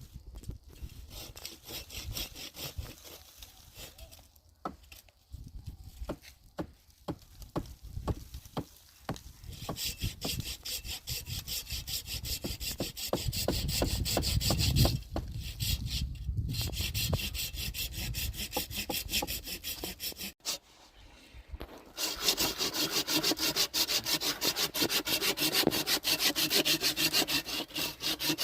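Hand saw cutting wood with fast, even back-and-forth strokes. The sawing stops briefly about two-thirds of the way through, then starts again. Before the sawing begins there are scattered light knocks.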